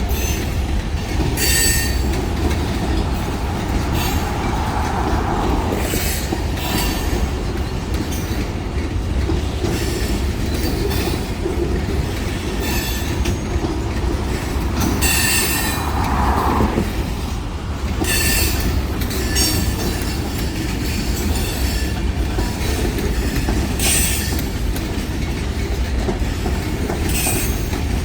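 Freight train rolling past at close range: a steady rumble of railcars on the track, with short high-pitched wheel squeals recurring every second or few.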